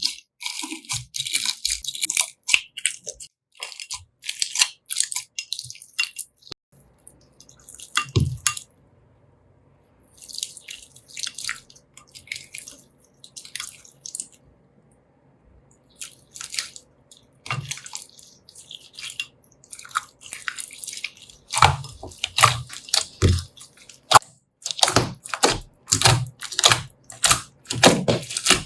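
Slime being squished and stretched by hand: quick irregular sticky clicks and crackles, with two short pauses, growing louder and fuller in the last third.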